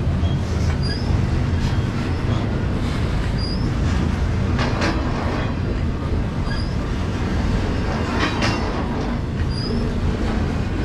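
A train rolling past on BNSF track: a steady low rumble of wheels on rail, with short high-pitched wheel squeals every few seconds. Clusters of clacks of wheels over rail joints come about five seconds in, about eight seconds in and at the end.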